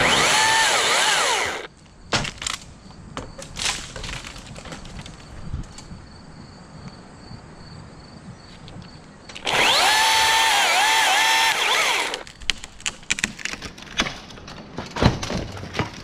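Chainsaw cutting in two short bursts of about two seconds each, its pitch dipping as the chain bogs in the wood. Between and after the bursts come scattered knocks and clatters of cut pieces dropping, most of them near the end.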